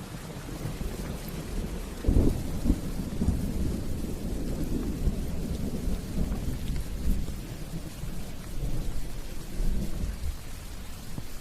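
Steady rain with a roll of thunder that breaks sharply about two seconds in and rumbles on, easing near the end.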